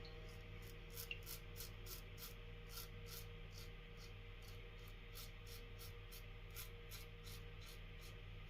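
Safety razor, a Merkur Futur with a Gillette Nacet blade, scraping through lathered stubble in quick, faint strokes, about three a second.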